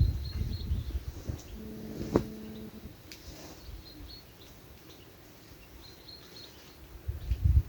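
A small bird chirping in short high notes, a few at the start and again near the end, with a single click about two seconds in and low rumbling noise at the start and end.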